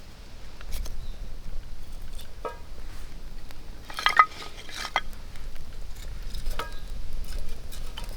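Metal cookware and utensils clinking and knocking together in handling, a few scattered knocks with short ringing tones, the busiest about four seconds in.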